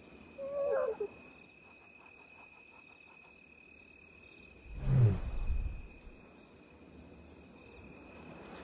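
Lioness giving a soft, low contact call about five seconds in, calling her hidden cubs out, with a short higher wavering call near the start. Crickets or other insects keep up a steady high buzz underneath.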